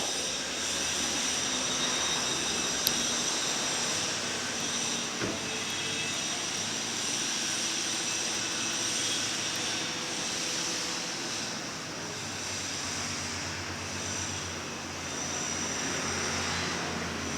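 Garbage compactor truck running steadily, a constant mechanical din with a high steady whine, a sharp click about three seconds in and a knock about five seconds in.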